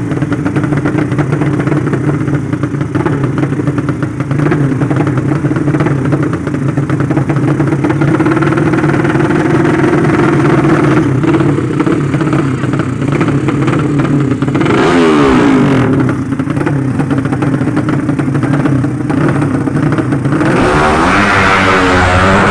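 Racing underbone motorcycle engines running steadily, more than one at a time. Twice, about two-thirds of the way in and again near the end, engine notes sweep up and down in pitch as they rev.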